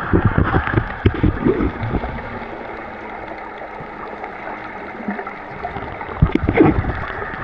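Wind buffeting the camera's built-in microphone in gusts over a steady rush of water, stronger at the start and again near the end, calmer in the middle.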